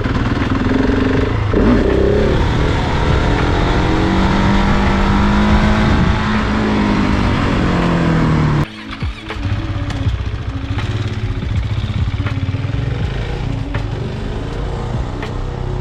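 Motorcycle engine pulling hard under throttle, its pitch climbing and falling as the revs change. The throttle is shut abruptly about nine seconds in, and the engine then runs at lower revs.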